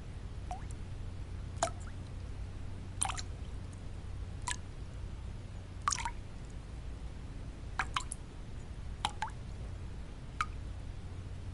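Water drops dripping one at a time, each a short rising plink, about ten in all at uneven spacing with a few in quick pairs, over a steady low white-noise rumble.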